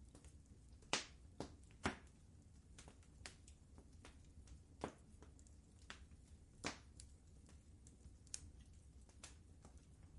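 Wood fire crackling in a fireplace: irregular sharp pops and snaps over a low, steady rumble. The loudest pops come about a second in and just before two seconds, with another clear one near the middle and one near seven seconds.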